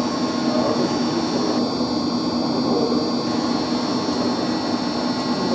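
Steady machine hum of a heating plant room, with a low drone and a constant high whine that stay level throughout, typical of a running circulation pump and its electric motor.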